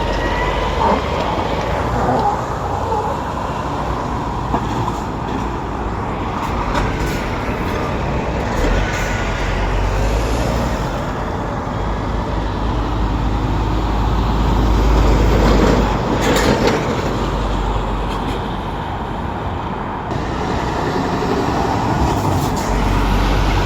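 Heavy lorries' diesel engines running and moving through, with traffic noise; the rumble swells to its loudest a little past the middle.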